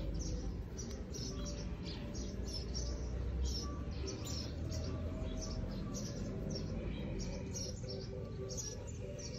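Small birds chirping in the background, many short high chirps a second, over a low steady rumble.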